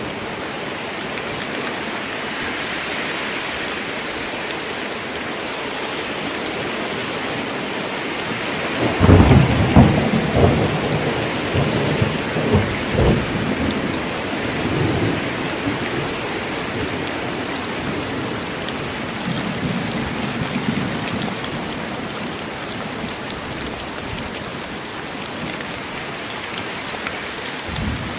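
Steady heavy rain falling in a forest, with a rumble of thunder breaking in about a third of the way through and rolling away over several seconds, then a fainter rumble later.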